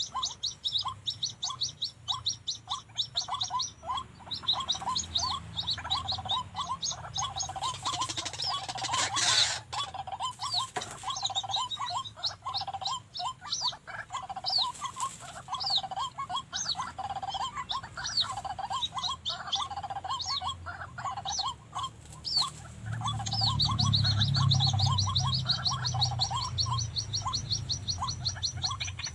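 White-breasted waterhens calling: a long run of short repeated notes, with rapid high chirping from other birds over them. A low rumble joins about three-quarters of the way through.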